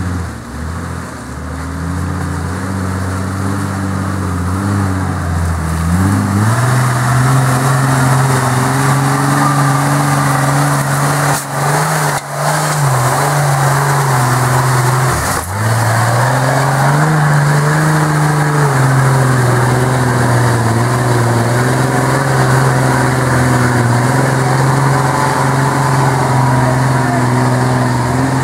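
Toyota Land Cruiser FJ40's engine working hard in deep mud: its revs climb about six seconds in and are held high, with a few brief drops in revs around the middle.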